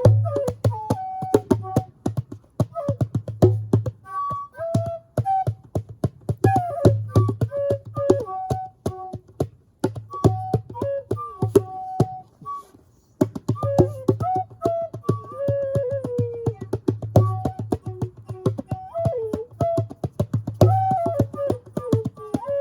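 Native American flute playing an improvised, stepping melody over djembe hand drumming, with many quick slaps and deep bass strokes. Both stop briefly a little past halfway, then start again.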